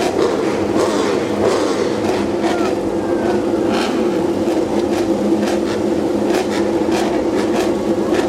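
Racing motorcycle engines running steadily on the starting grid, a constant engine drone with short sharper spikes scattered through it.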